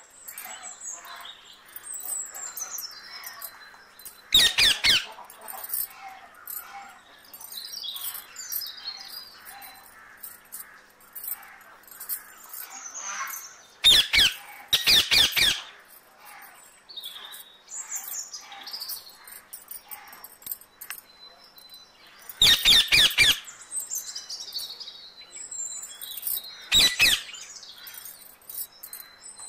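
Birds chirping and calling in the background, broken by four short, loud bursts of rapid clicking.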